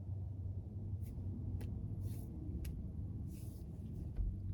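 Quiet background with a steady low hum, a few faint clicks, two soft hissing sounds, and a dull thump near the end.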